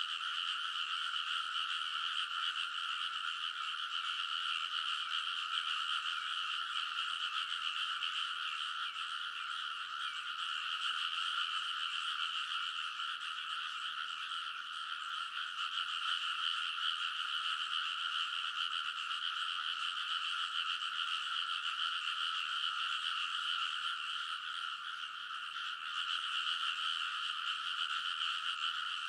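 A dense chorus of many frogs calling together at the edge of a rice paddy: countless overlapping croaks blending into a steady, unbroken din.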